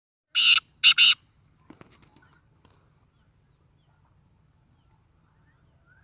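Black francolin calling: one short harsh call of three notes in quick succession, lasting about a second, followed by a few faint clicks.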